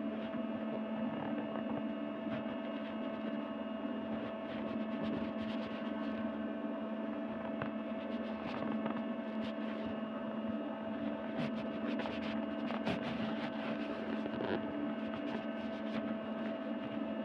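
A steady droning hum made of several held tones that do not change, with faint scattered crackles.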